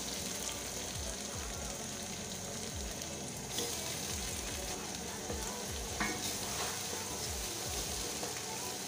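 Chopped onions and fresh tomatoes sizzling steadily in hot cooking oil in an aluminium saucepan as they are stirred in with a wooden spoon, with a couple of light knocks.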